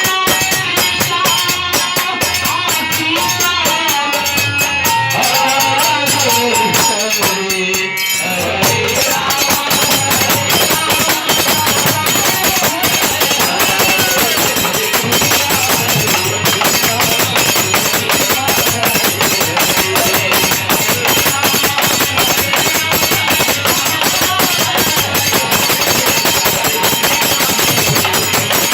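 Devotional kirtan music: a sung melody over fast, dense jingling percussion like tambourine. About eight seconds in the singing line fades back and the jingling percussion and accompaniment carry on steadily.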